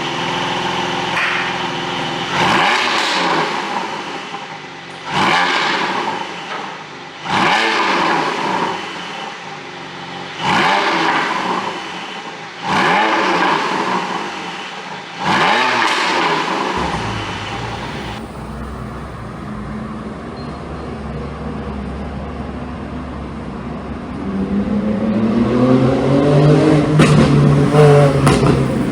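Porsche 718 Boxster 4.0 GTS flat-six engine, with ECU-tuned exhaust flaps and pops, revved sharply six times from idle, each rev rising then falling back. About 17 seconds in it settles to a steadier, lower running note. Near the end the revs climb again.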